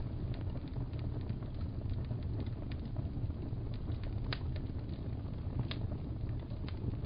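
Fire crackling in a fireplace: a steady low rumble with scattered small crackles and a couple of sharper pops, one about four seconds in and one near six seconds.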